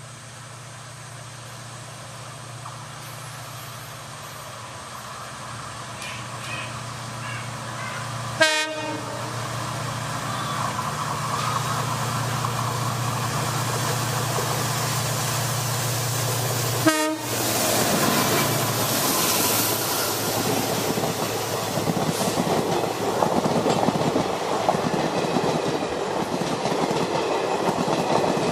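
Indian Railways train drawing nearer and sounding its horn, a steady low hum growing louder. From about 18 seconds in it passes with a dense rolling clatter of wheels over rail joints. Two sharp clicks cut in, about 8 and 17 seconds in.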